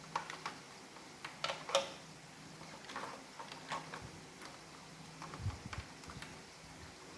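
Plastic parts of an iRobot Roomba robot vacuum being handled and fitted together: irregular clicks and light knocks, with a dull low thump about five and a half seconds in.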